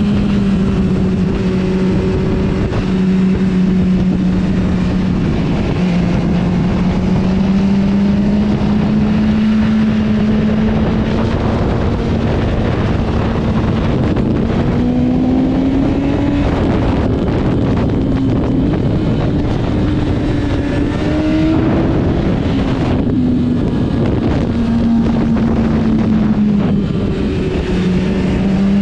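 Motorcycle engine running under way, with heavy wind rush on the microphone. The engine note holds fairly steady, rising a little and dropping back a couple of times around the middle and again near the end.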